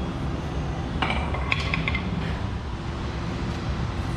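Loose metal parts clinking and ringing briefly, a cluster of clinks about a second in, over a steady low hum.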